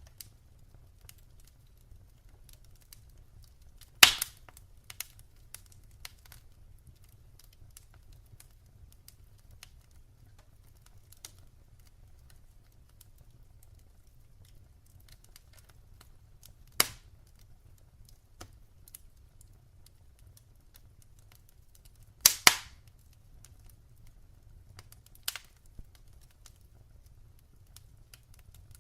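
Wood fire crackling in a fireplace: scattered small crackles over a faint low rumble, with sharp pops from the burning logs about 4 s in, about 17 s in, a loud double pop about 22 s in, and a smaller one soon after.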